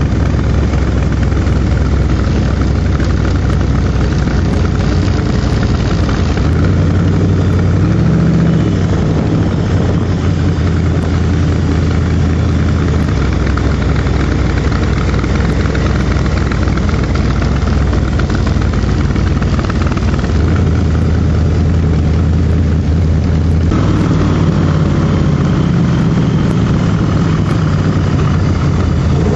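Cobra replica's V8 engine running under way in an open roadster, heard from the cockpit with wind rushing over the car; the engine briefly revs up and back about a third of the way in, and the wind noise eases near the end as the car slows.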